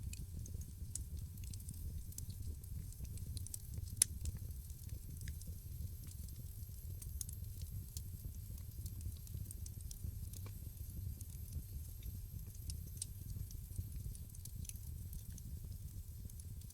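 Wood fire crackling in a fireplace: scattered small pops and snaps over a low, steady rumble of the flames, with one sharp, louder pop about four seconds in.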